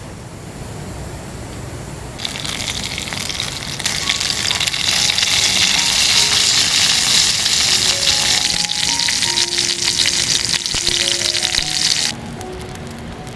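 Food sizzling in a hot pan: a dense frying hiss that comes in about two seconds in, grows louder a couple of seconds later and cuts off suddenly near the end. Soft background music plays underneath.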